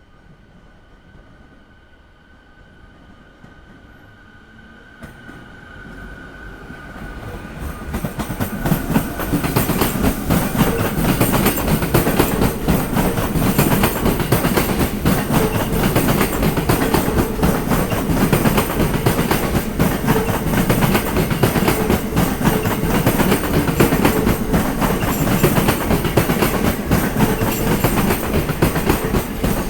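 A train comes in and passes over rail joints, its wheels clattering loudly in quick succession over the joints. The sound builds over the first several seconds, then stays loud as the cars go by.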